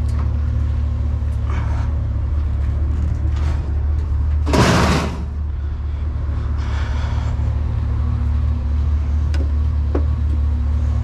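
Truck running with a steady low rumble and hum. About four and a half seconds in there is one loud, brief noise, a thump or whoosh, lasting under a second.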